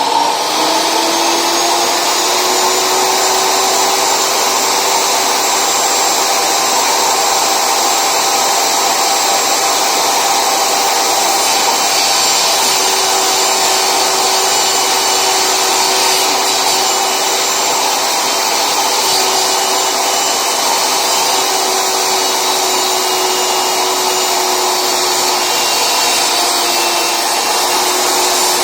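Table saw running steadily at full speed, its motor whine settling to a constant pitch in the first second after start-up.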